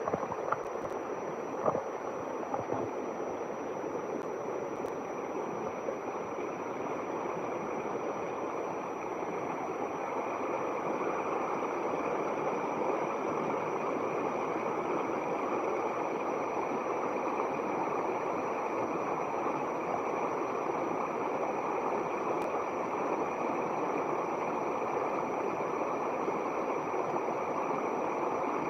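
River water flowing steadily, with a continuous rush that grows a little louder after about ten seconds. A few small clicks sound in the first couple of seconds.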